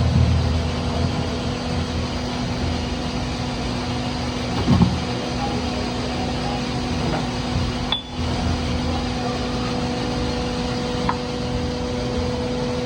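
Broaching machine running with a steady machine hum while cutting a cast universal-joint yoke. There is a brief knock about five seconds in and a momentary break about eight seconds in.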